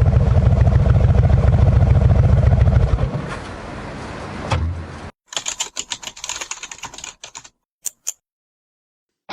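Harley-Davidson V-twin with a Kesstech exhaust running with a loud, low, rapid pulsing, then dropping much quieter about three seconds in, with a thump. After an abrupt cut comes a couple of seconds of quick clicking and rattling, then two short clicks.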